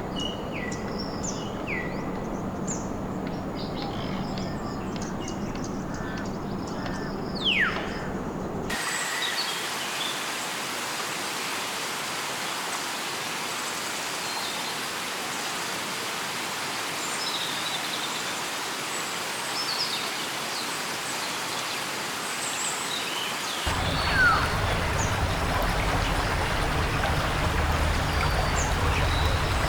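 Rainforest ambience: a steady hiss-like background with scattered bird chirps and calls, including one falling whistle about seven seconds in. The background bed changes abruptly twice, at about nine seconds and about twenty-four seconds.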